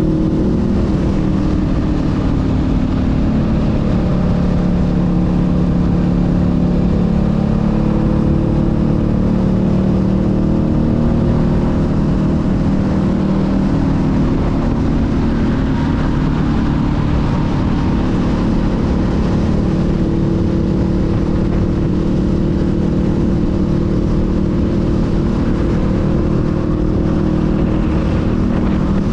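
Honda Rebel 500's 471 cc parallel-twin engine running steadily under way, its pitch shifting a little up and down with the throttle.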